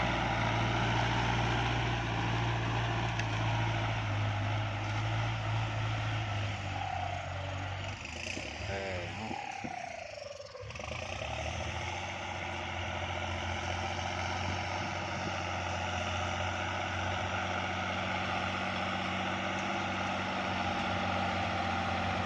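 Kubota MU4902 tractor's diesel engine running steadily under load while disc ploughing in second gear. Around the middle the sound briefly drops and shifts in pitch, then settles back to steady running.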